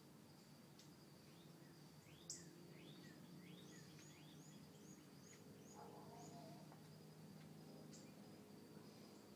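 Near silence with faint bird chirping: a quick run of rising high chirps, about two a second, from about a second and a half in to the middle, over a faint steady high tone.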